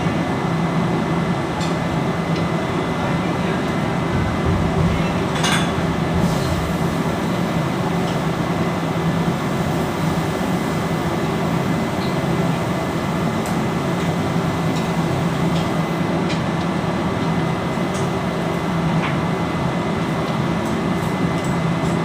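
Steady machinery drone with a thin high tone running through it, broken by a few light clicks and knocks, the clearest about five and a half seconds in.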